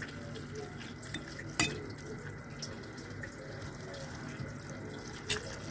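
Instant noodles stir-frying in sauce in an aluminium saucepan over a low gas flame: a steady sizzling hiss. A metal fork clinks against the pot twice, about a second and a half in and again near the end.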